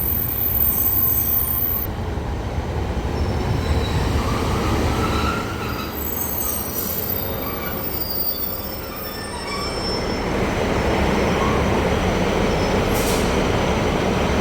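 Northern Class 156 diesel multiple unit pulling into the platform, its wheels squealing in thin high tones as it slows over a steady rumble. From about ten seconds in, a broader, slightly louder steady running noise takes over.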